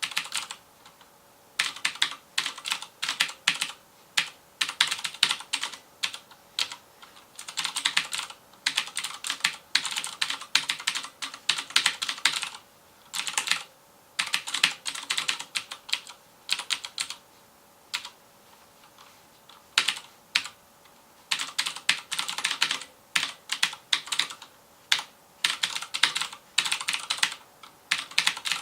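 FILCO Majestouch Convertible 2 mechanical keyboard with clicky Cherry MX Blue switches being typed on fast: rapid runs of sharp key clicks, broken by short pauses, with a longer pause of about two seconds past the middle.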